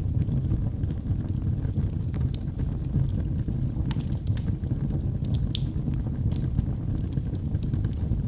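Wood fire crackling in a fireplace: irregular sharp pops and snaps, thickest about halfway through, over a steady low rumble of the burning logs.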